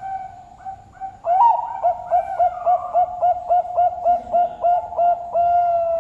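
Zebra dove (Bangkok-bred perkutut) singing: an opening coo, a rising note, then a fast run of about a dozen short, evenly spaced coos, ending on one long held coo.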